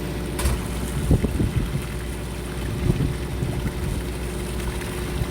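Fishing boat's engine running steadily with a constant low hum, with wind on the microphone. A sharp click comes about half a second in, and a few brief low thumps follow.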